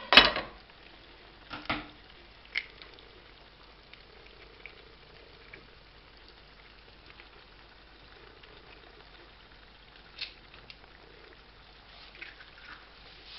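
Potatoes, ham and eggs frying gently in a pan with a soft, steady sizzle. It is broken by a loud sharp knock at the very start and a few lighter knocks and clicks as an egg is cracked open over the pan.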